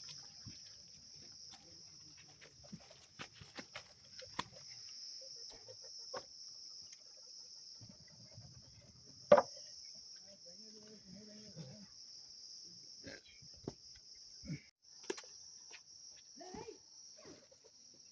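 Insects chirring in a steady, high-pitched drone that breaks off briefly about fifteen seconds in. Faint scattered clicks and knocks sound over it, with one sharp knock about nine seconds in.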